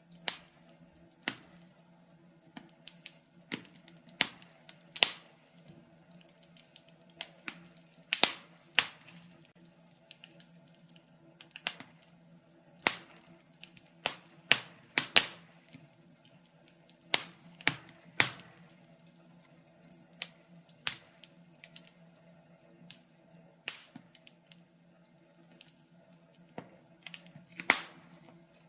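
Wood fire burning in a fireplace, crackling with irregular sharp pops, some louder than others, over a faint steady low hum.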